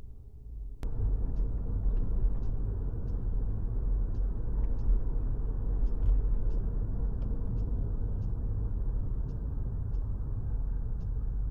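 Steady low rumble of a car driving, as heard from inside the cabin, cutting in abruptly about a second in, with faint light ticks scattered over it.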